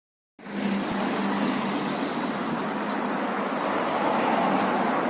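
Street traffic: car engines running in a busy city street, a steady hum with a low engine tone. The sound drops out for a moment at the very start, then comes straight back.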